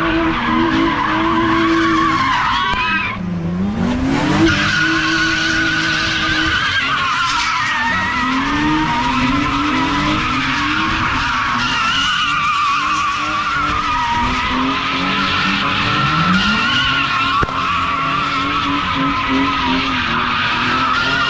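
Car tyres squealing continuously while the engine revs up again and again, as in a burnout or donuts. The pitch of the squeal wavers, and the engine dips and climbs back about three seconds in.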